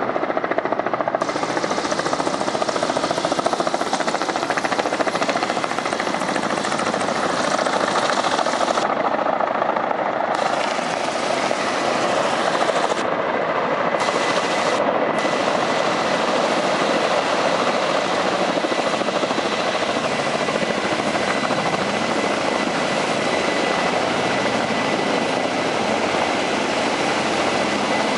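Firefighting helicopter hovering close by, its rotor and engine running with a loud, steady noise while it takes on water.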